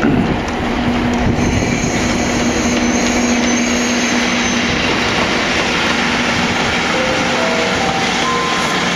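Freight train running past on the rails: a loud, steady rolling noise, with a thin high tone for a few seconds early on and a few short tones stepping upward near the end.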